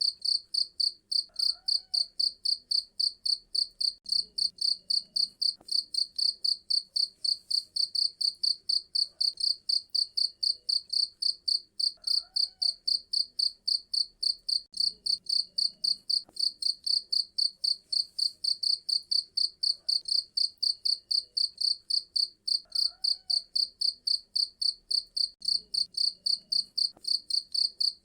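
Cricket chirping loudly and without a break, an even train of high, rapid pulses at about four chirps a second.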